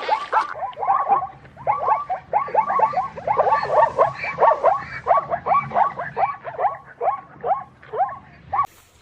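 Animal calls: a fast series of short, downward-sliding calls from several animals overlapping, loud and continuous, stopping abruptly near the end.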